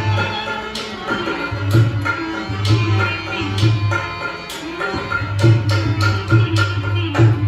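Tabla playing in Rajasthani folk music: deep, booming bass-drum strokes and sharp treble strokes in a steady rhythm, under a sustained melodic instrument. The music stops right at the end.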